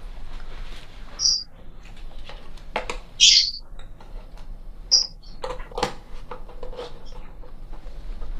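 Small birds chirping in short, high calls a few seconds apart, the loudest about three seconds in. Light knocks and rustles come in between.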